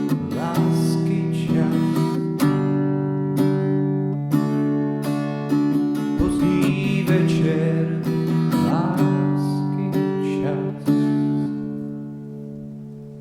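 Acoustic guitar strumming chords, a strum every second or so, fading out over the last couple of seconds and then stopping.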